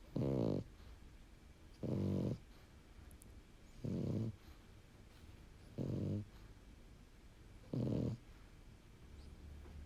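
A sleeping French bulldog snoring: five short snores at an even pace, about two seconds apart. Short-nosed breeds like this one are prone to snoring.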